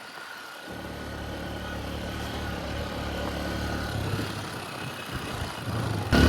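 Honda XR150L's small single-cylinder engine running steadily under way, slowly growing louder, with a sudden louder rush just before the end.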